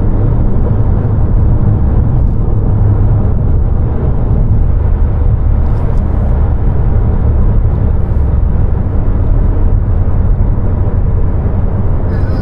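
2020 Honda Civic Si's 1.5-litre turbocharged four-cylinder running at a steady pace with road noise, a continuous low drone with no clear revving or gear change.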